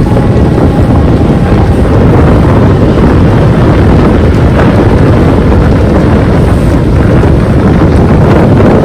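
Strong wind buffeting the microphone in heavy rain: loud, steady noise heavy in the lows.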